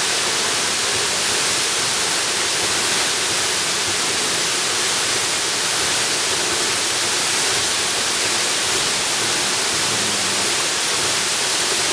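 Jungle waterfall rushing in a steady, unbroken hiss of falling water.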